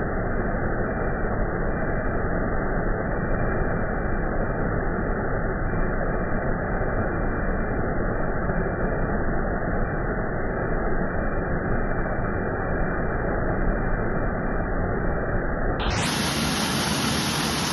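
Steady rushing roar of a waterfall. Near the end it abruptly turns brighter and thinner, with less low rumble.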